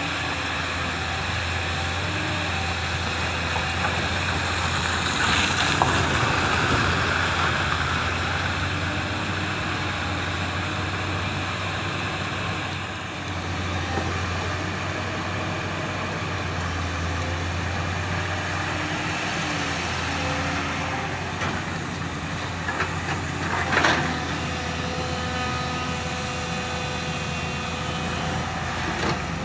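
JCB excavator's diesel engine running steadily as it works loading a dumper, with a continuous low mechanical hum and a couple of brief louder surges.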